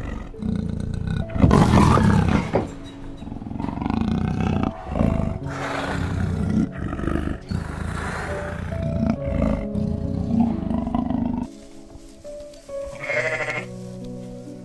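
A big cat roaring in a run of loud calls over soft background music. About eleven and a half seconds in the roars cut off, and near the end a short bleat sounds over the music.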